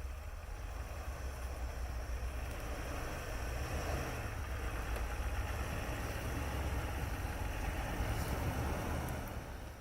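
Jeep engine running at low speed while crawling, with a steady rushing noise over it. Both die down near the end.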